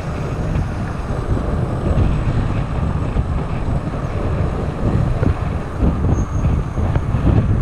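Wind buffeting the microphone while riding a bicycle along a trail: a loud, unsteady low rumble.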